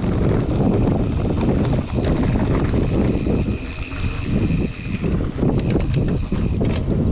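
Wind buffeting an action camera's microphone while a mountain bike rides over a dirt trail, with scattered rattles and clicks from the bike. A faint steady high buzz comes in a few seconds in and cuts off near the end.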